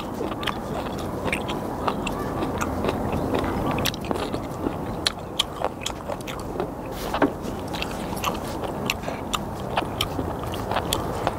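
Close-up chewing of raw skate and kimchi: irregular wet smacks and crunchy clicks from the mouth over a steady low background noise.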